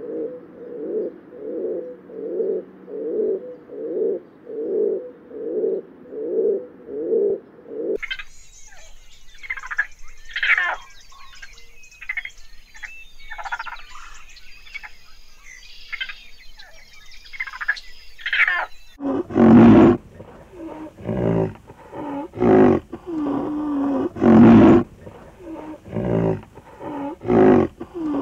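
Feral pigeons cooing, a low coo repeated about once every 0.8 seconds. About 8 seconds in this cuts to the high, squeaky chittering and squeals of raccoons. From about 19 seconds there are loud, rough, heavy sounds, roughly one a second, from a rhinoceros feeding on cut grass.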